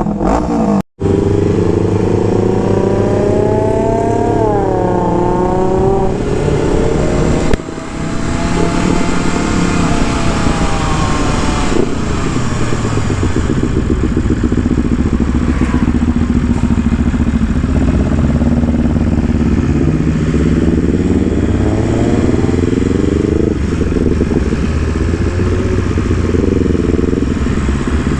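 Motorcycle engine running while being ridden, its pitch climbing and dropping again and again with the throttle, over steady wind noise. The sound cuts out for an instant about a second in.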